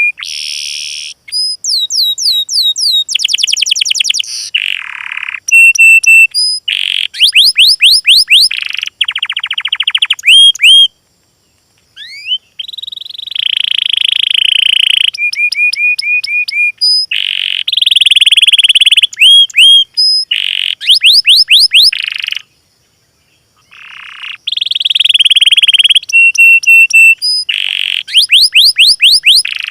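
Recorded songbird song played as a loud, edited loop. It is a fast medley of high downward-sweeping whistles, rapid trills, buzzy phrases and repeated chips, with the same phrases coming back again and again. There are two brief breaks of silence.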